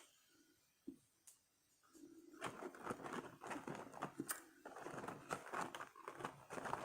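Paper fast-food fry packaging being handled, crinkling and crackling irregularly from about two seconds in, after a couple of faint ticks.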